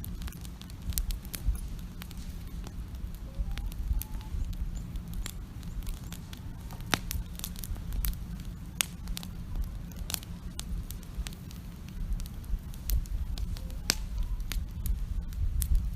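Wood campfire burning, with irregular sharp crackles and pops over a steady low rumble from the flames.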